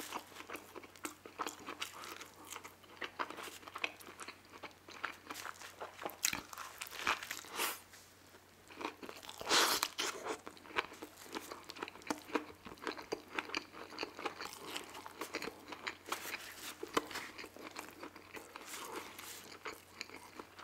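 Close-miked chewing of a crispy fried chicken sandwich: irregular wet crunching and lip smacking, with a louder smack about halfway through as sauce is licked off the fingers.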